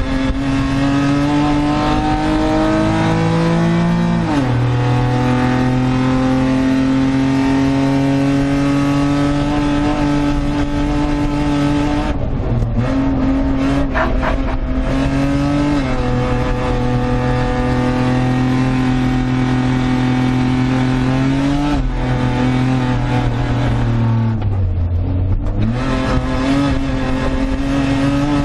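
Suzuki Carry kei truck's small three-cylinder engine at racing speed. The revs climb slowly, drop sharply at a gear change about four seconds in and again a little after twenty seconds, and fall away while the driver lifts off the throttle in the middle and once more near the end.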